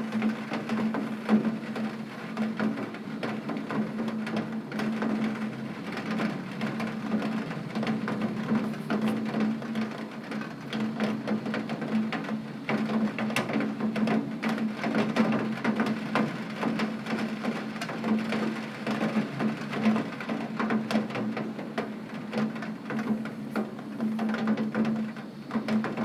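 Heavy rain on a window: dense, irregular taps of drops on the glass over a steady hiss. A steady low hum runs underneath.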